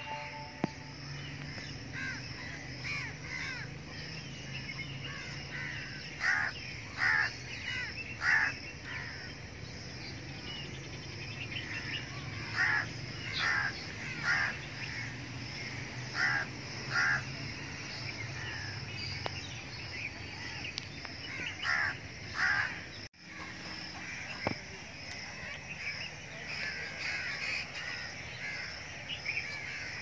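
Outdoor bird chorus: a loud bird call repeated in groups of two or three, several times, over a steady background of smaller birds chirping.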